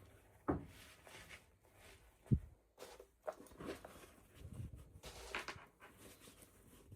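Hands unboxing small plastic toys: irregular light knocks and rustles, with a sharper knock a little past two seconds in.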